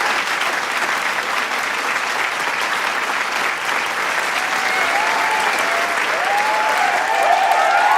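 Large crowd applauding, a dense steady clatter of many hands clapping, with cheers and whoops from voices rising through the second half.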